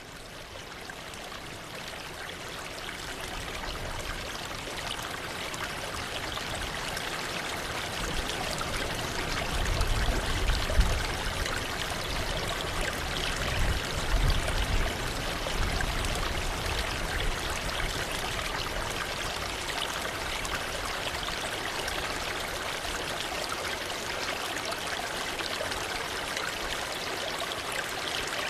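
Waterfall: water falling and splashing in a steady rush that fades in over the first few seconds. A few low rumbles come up near the middle.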